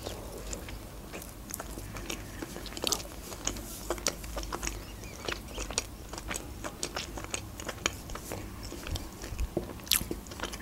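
A person chewing a mouthful of soft donut, with many small, irregular mouth clicks and smacks and a sharper click near the end.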